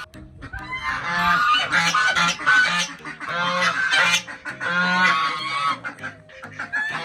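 Domestic goose honking loudly in repeated runs of harsh calls. The calls come from a goose that has gone at a person trying to get past it.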